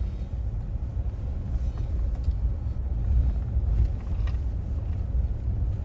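Steady low rumble of a 3/4-ton pickup truck driving on a gravel road, heard from inside the cab, with a couple of faint ticks, likely gravel or small rattles.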